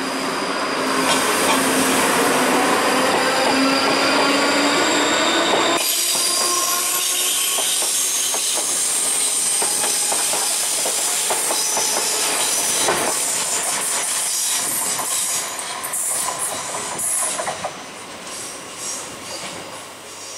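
ScotRail electric multiple-unit trains running past along the platform. First a Class 334 with a steady electric whine, then, after an abrupt change about six seconds in, wheels clicking over the rail joints. The clicks fade away near the end as the train departs.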